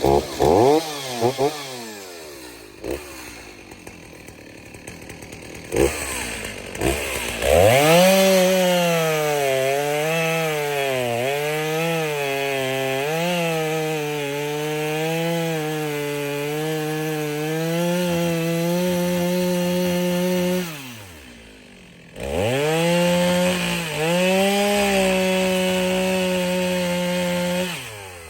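Chainsaw revving a few times, then running flat out through two long cuts in wood, its pitch dipping and recovering as the chain bites and loads. It drops back briefly between the two cuts.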